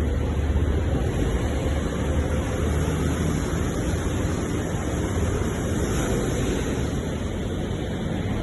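Ocean surf: a steady rush of waves with a deep rumble underneath.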